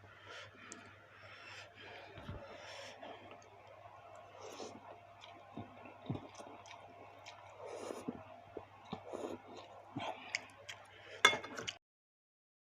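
Close-miked chewing of baso aci, chewy tapioca meatballs, with small irregular wet mouth clicks. A sharp, louder click comes near the end, then the sound cuts out abruptly.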